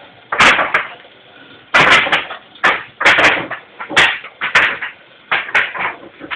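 Irregular metal clanks and knocks, roughly one or two a second, some ringing briefly, as a Caterpillar 3412 diesel crankshaft is lowered on rigging into an engine room.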